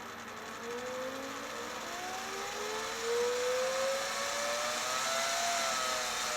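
Wire-feed motor of a Sealy SuperMig 150 MIG welder running on its PWM speed control, whirring with a whine that rises steadily in pitch as the speed is turned up from slow, getting louder about three seconds in, then holding steady near the end.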